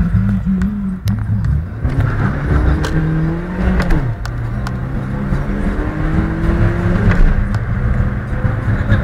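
Volkswagen Gol Trend 1.0's small four-cylinder engine under full-throttle acceleration. Its pitch climbs through each gear and drops at upshifts about four and seven seconds in.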